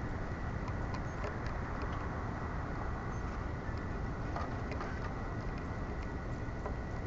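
Steady outdoor background noise: a low rumble and hiss, with a faint constant high tone and a few faint scattered ticks.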